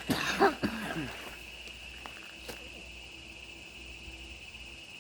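Forest insects, crickets or similar, keep up a steady, high-pitched drone. In the first second a short voice-like sound with falling pitch rises above it, and there is a faint click about halfway through.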